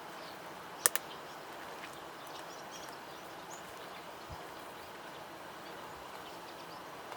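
Quiet outdoor ambience with faint bird calls, broken by a sharp double click about a second in.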